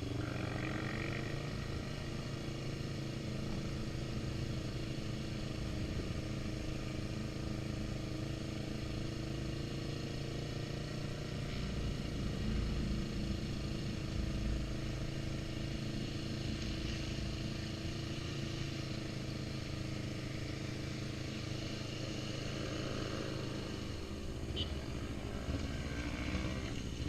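Yamaha MT-03 motorcycle engine running steadily under way, with wind rumble. The engine pitch shifts just after the start and again near the end.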